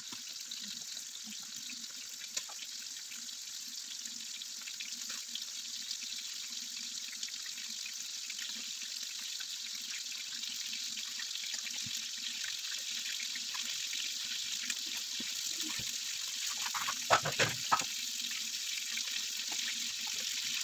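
Chicken pieces frying in a frying pan: a steady sizzle with small crackles, slowly growing louder. Near the end there is a quick cluster of three knocks.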